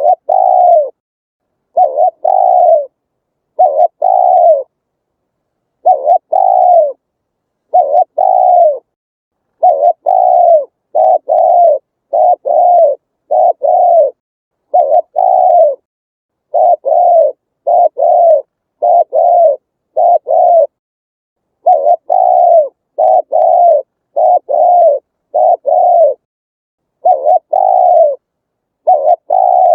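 Spotted dove cooing over and over: short, low coos, each dipping a little in pitch, delivered in quick runs of two to four with brief pauses, the gaps between notes fully silent.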